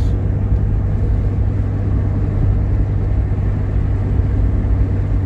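Steady low rumble of a Jeep Grand Cherokee being driven, engine and road noise running evenly.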